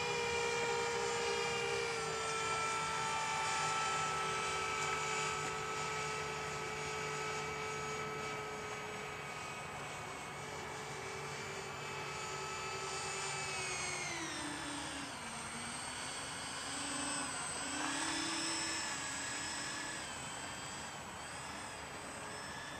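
Radio-controlled Airbus A380 model in flight, its engines giving a steady multi-tone whine. About two-thirds of the way through the pitch slides down as the throttle is eased back, then wavers up and down.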